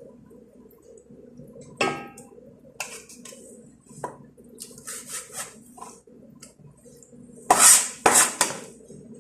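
Cooking pot and metal utensils clattering: a ringing clank about two seconds in, a few lighter knocks and rustles, then two louder scraping clatters near the end, over a steady low hum.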